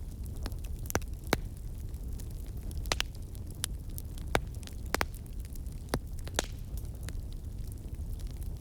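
Burning wood logs crackling: a steady low rumble of the flames with irregular sharp pops and snaps, a few louder ones about a second apart.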